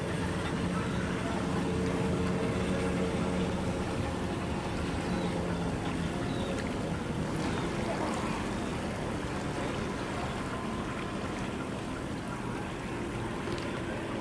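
A motor vessel's engine running steadily underway, a low hum over the rush of water and wind; the hum fades somewhat about halfway through.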